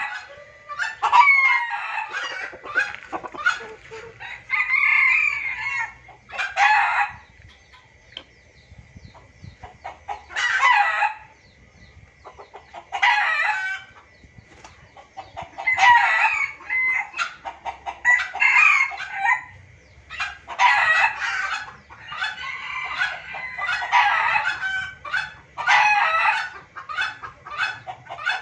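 Junglefowl calling in short, noisy, repeated bursts, with longer gaps of a few seconds in the middle; this is a noisy lure call used to draw wild junglefowl. A faint steady high tone runs between the calls in the first half.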